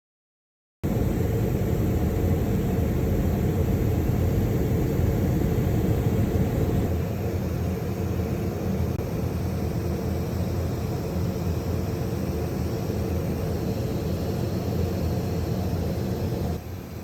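Steady, loud rumble and hiss of a vehicle running. It starts abruptly about a second in and drops in level just before the end.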